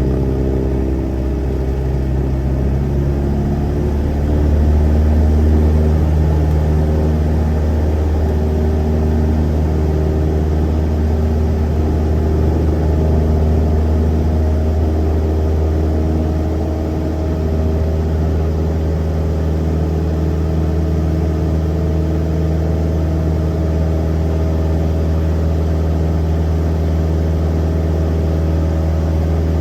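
Cessna light aircraft's piston engine and propeller running at takeoff power, a steady low drone. It gets louder about four seconds in, and its pitch shifts over roughly the first dozen seconds before holding steady.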